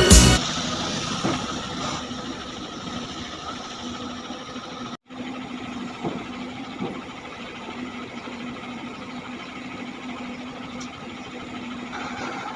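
Backhoe loader's diesel engine running steadily at low revs, broken by a brief cut about five seconds in.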